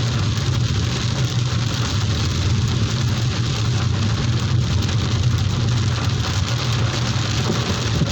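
Heavy rain pouring down, a dense, steady hiss with a steady low rumble beneath it.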